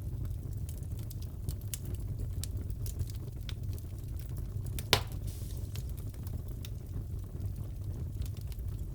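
Fireplace crackling: a low steady rumble of the fire with scattered small pops and one louder snap about five seconds in.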